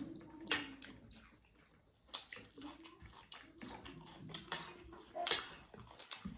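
People eating a rice-and-curry meal: wet chewing, lip smacks and small clicks of food and dishes, in short scattered bursts, a few of them louder.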